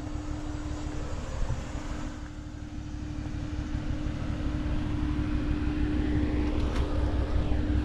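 Off-road buggy engine running steadily, a steady hum over a low rumble that grows gradually louder through the second half.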